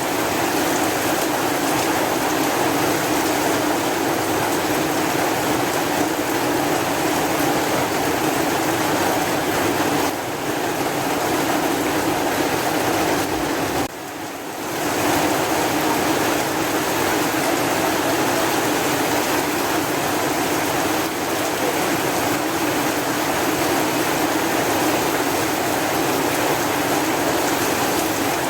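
Heavy rain falling as a steady, even hiss, briefly dropping in level about halfway through.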